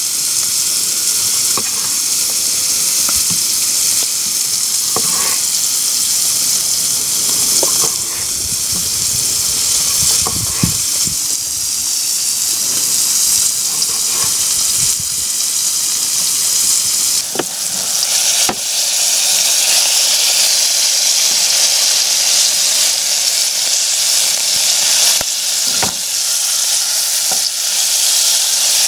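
Salted pork fat sizzling steadily as it renders in a frying pan, the sizzle growing louder in the second half. Scattered sharp knocks and taps fall mostly in the first half.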